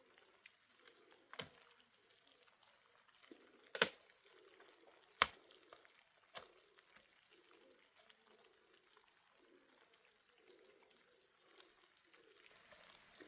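Faint trickling and dripping water, broken by four short sharp knocks over the first half, the two middle ones loudest.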